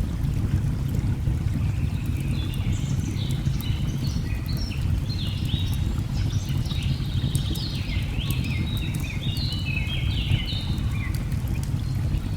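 A steady low rush of falling water with faint fire crackles over it, and birds chirping in many short, quick notes from about two seconds in until near the end.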